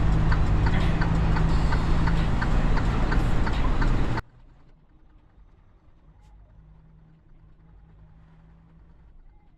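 Truck engine idling with a steady low hum and regular ticking about three times a second. The sound cuts off abruptly about four seconds in, leaving only a faint low hum.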